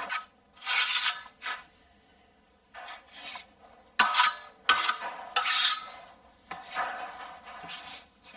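Putty knife scraping and spreading GIB finish compound over a mesh patch on plasterboard, in about half a dozen short strokes with pauses between.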